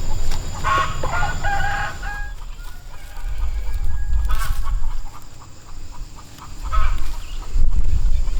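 Chickens clucking and calling in short pitched bursts, with a longer drawn-out call in the middle, over a steady low rumble.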